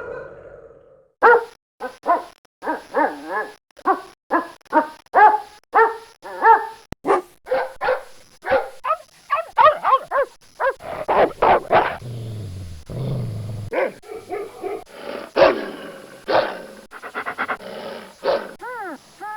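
A dog barking, a long run of short, separate barks starting about a second in, with a low growl partway through and a whine near the end.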